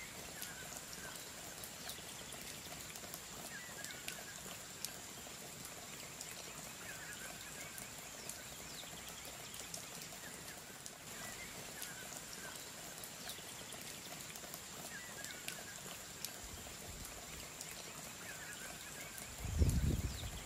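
Faint outdoor ambience: a short bird call repeating about every three seconds over a steady hiss, with scattered faint drip-like clicks. Near the end a burst of low rumble comes in.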